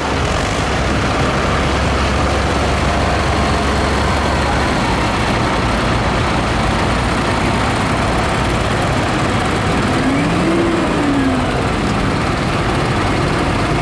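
Diesel tractor engines running as the tractors drive past, with a strong low rumble for the first few seconds. About ten seconds in, an engine's pitch rises and falls again.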